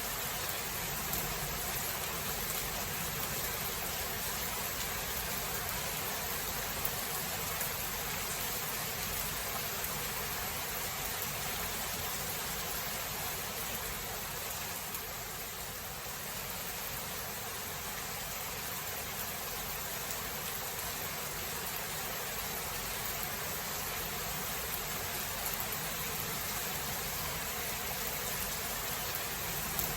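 Steady, dense rain of a thunderstorm, dipping slightly for a few seconds about halfway through.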